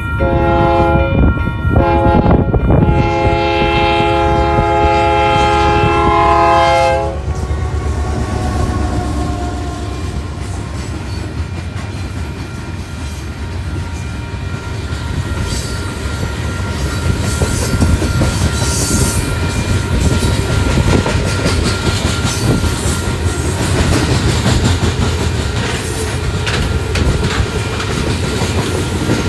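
Diesel freight locomotive's horn sounds the grade-crossing signal: two long blasts, a short one, then a final blast held about four seconds. Its pitch drops as the locomotive passes, about seven seconds in. After that the freight cars rumble and clickety-clack steadily over the crossing while the crossing bell keeps ringing.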